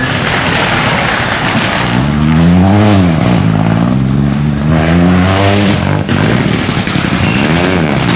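Rally car engine at full throttle, revs climbing and dropping about three times as it shifts gear. A rough rushing noise comes first, and the engine note takes over about two seconds in.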